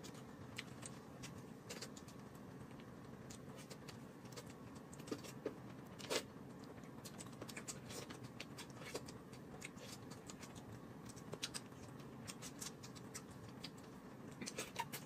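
Faint eating sounds: chewing and tearing at a chicken drumstick held in the hands, with scattered small clicks and mouth smacks, one a little louder about six seconds in.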